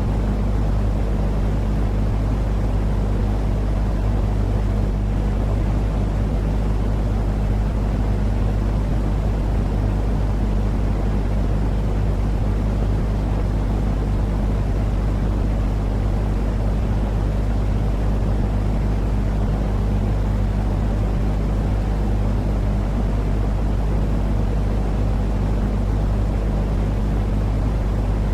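Continuous low, droning noise with a constant hum underneath, unchanging throughout: a looped sleep-noise track for calming babies, rumbling like a vehicle's engine drone.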